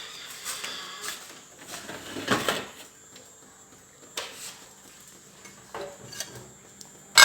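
Kitchen handling noises: a few knocks and a scraping rustle, then one sharp, loud clack near the end, as of a drawer or a plate being handled.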